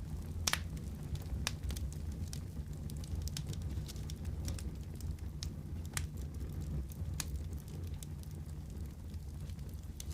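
Wood fire crackling in a fireplace: a steady low rumble of burning with irregular sharp pops and snaps, the loudest about half a second in and another near six seconds.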